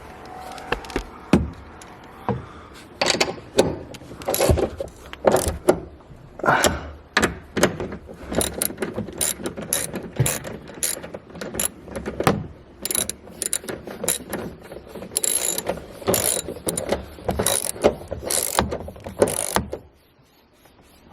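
Hand tools working on car suspension bolts: a ratchet wrench clicking in irregular runs, mixed with sharp metal clanks and knocks.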